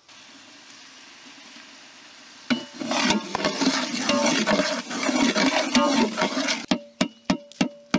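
Onion, tomato and spice masala frying in a large aluminium pot: a faint steady sizzle, then from about two and a half seconds in a metal ladle stirring and scraping through it, much louder. Near the end, background music with percussion comes in.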